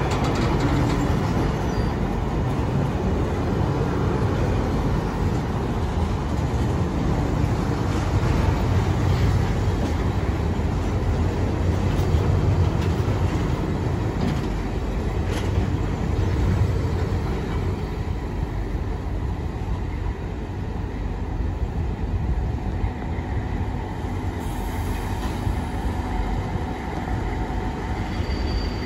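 Freight car-carrier wagons loaded with vans rolling slowly over the rails on a diverging route, a steady rumble and rattle of wheels and couplings. Near the end a high-pitched wheel squeal starts.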